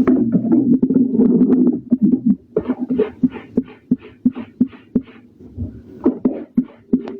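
Clothes being scrubbed by hand in water, wet fabric rubbed in a steady rhythm. After a dense stretch of continuous rubbing, the strokes settle to about three a second.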